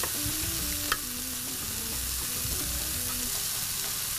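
Chicken pieces and tomatoes sizzling on a hot griddle while a wooden spatula stirs and scrapes them, with one sharp click about a second in.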